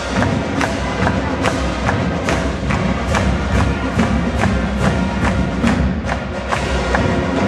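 Marching band playing, with sharp percussion clicks marking a steady beat about two to three times a second over the full band.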